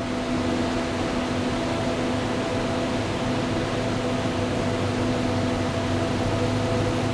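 Motorcycle engine humming at a steady speed under a constant rush of wind or road noise.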